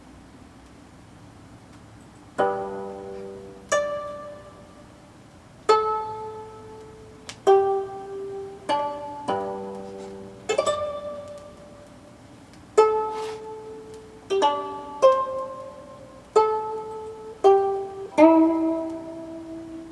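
Gayageum, the Korean plucked zither, playing a slow solo melody of single plucked notes, each fading away before the next, with some notes bent in pitch after the pluck. The notes begin about two seconds in, after a short quiet stretch.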